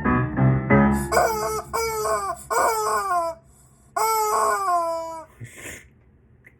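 A chicken squawking in a run of short calls that fall in pitch, then one longer call about four seconds in, as the backing music stops about a second in.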